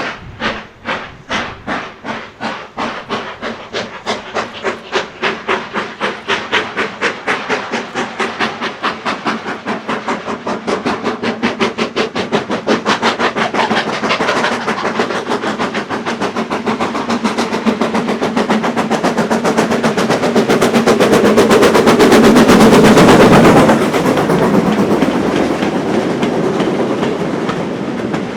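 BR Standard Class 9F 2-10-0 steam locomotive 92214 accelerating with a goods train: the exhaust chuffs start slow and quicken steadily, growing louder until it passes close, loudest just before the sound drops away sharply about 23 seconds in. The wagons' wheels then clatter over the rail joints.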